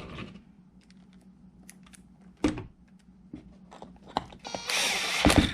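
Light scattered clicks and clatter of small RC truck parts being handled, with one sharper click midway. A louder scraping rustle of under a second comes near the end.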